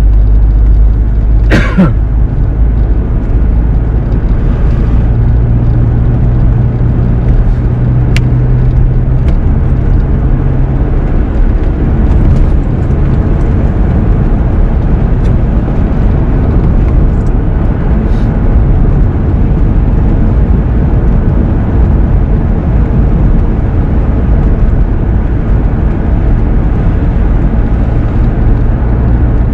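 Car driving on the road, heard from inside the cabin: a steady low drone of engine and tyre noise, with a brief sharp noise about a second and a half in.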